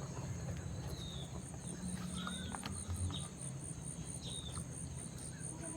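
Crickets trilling steadily in a high, fast pulse, with short falling chirps repeating about once a second and a low steady hum underneath.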